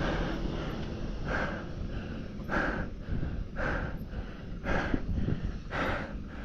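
A cyclist breathing hard and rhythmically while pedalling, about one breath a second, over a steady low rumble.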